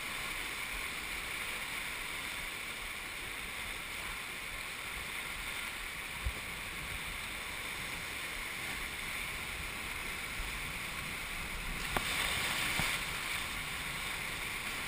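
Steady rush of river water around a raft, with a faint knock about six seconds in and another near twelve seconds.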